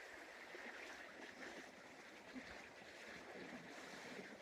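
Faint steady rushing of a small stream flowing.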